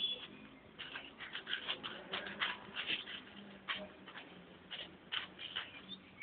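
Irregular short scratching and scuffing, several strokes a second: a dog's paws scratching at the ground.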